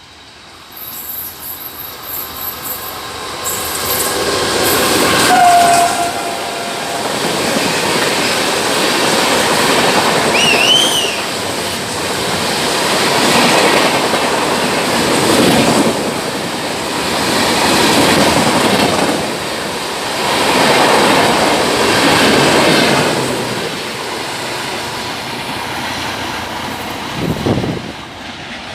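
An LHB express hauled by a WAP-4 electric locomotive passing at high speed. The rush of wheel and air noise builds from about a second in, with a short horn note around five seconds. It goes on as a long run of wheel clatter that swells and fades as the coaches go by, easing off near the end.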